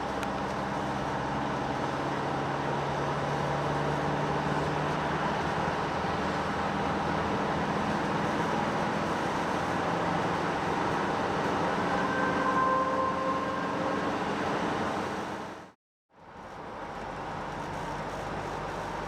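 Mercedes-Benz Vito 114 CDI van's four-cylinder turbodiesel running under acceleration, with steady engine hum and road noise. The sound cuts out completely for a moment about three seconds before the end, then fades back in.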